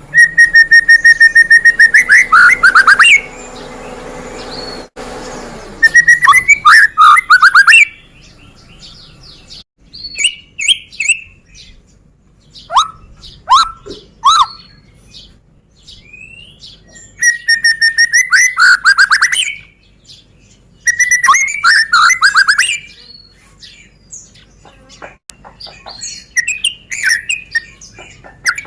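White-rumped shama (murai batu) singing: loud phrases come back several times, each a held whistle that breaks into a fast run of falling notes, with rapid high trills. Between the phrases come short, sharp down-slurred notes.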